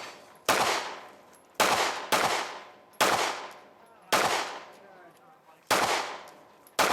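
Pistol-caliber carbine fired in single shots, seven in all at uneven spacing, each shot followed by a long fading echo.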